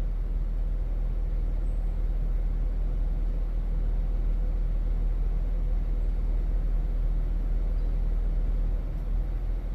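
Vehicle engine running steadily, a low even rumble with a faint constant hum above it.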